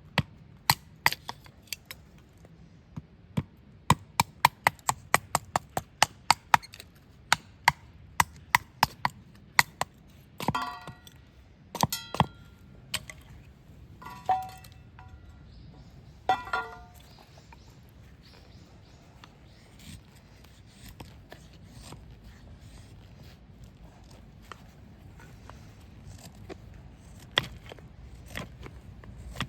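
Rapid sharp knocks, about three a second, for the first nine seconds or so. Then come a handful of louder ringing metallic clinks. Scattered faint knocks follow, with one sharp knock near the end.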